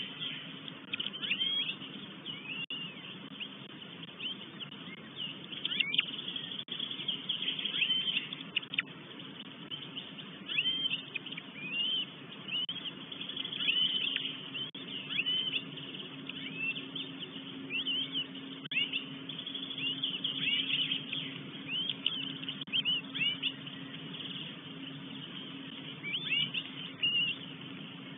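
Birds calling: short chirps that bend up and down in pitch, coming every second or so, over a steady low hum.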